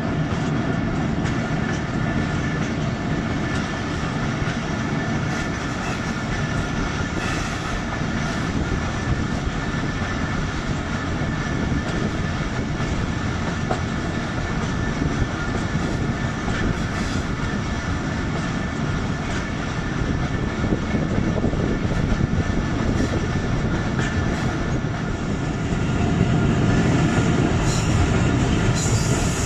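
Diesel-hauled passenger train running, heard from an open coach door: a steady rumble and rattle of the coaches' wheels on the track, growing a little louder near the end.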